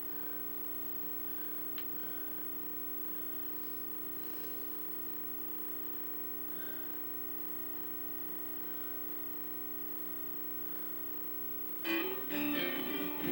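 A steady hum made of several fixed tones. About twelve seconds in, much louder guitar music starts.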